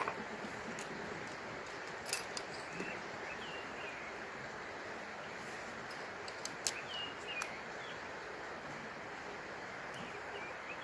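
Small birds chirping briefly now and then over a steady rushing outdoor background, with a few sharp clicks.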